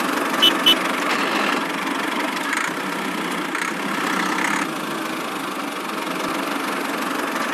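An engine running steadily at idle, with two short high chirps about half a second in.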